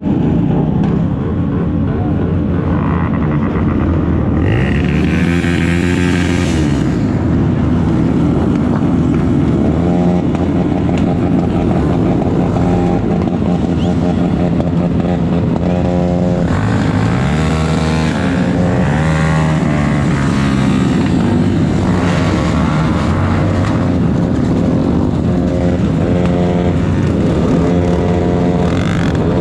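Motorcycle engine running steadily and loudly, its pitch swooping up and down several times as it revs and shifts gears.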